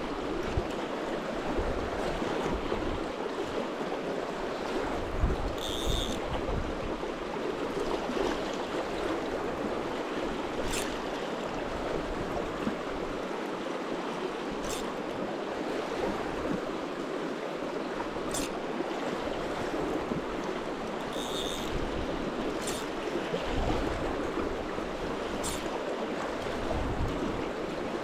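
Fast-flowing river water rushing steadily around the wader, with a short sharp tick every few seconds.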